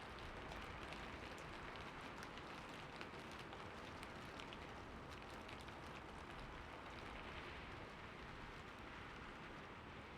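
Heavy rain falling steadily: a dense even hiss, speckled with many individual raindrop hits.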